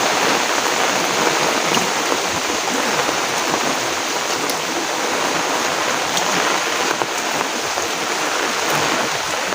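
Heavy rain falling steadily, an even hiss of rain with faint scattered drips.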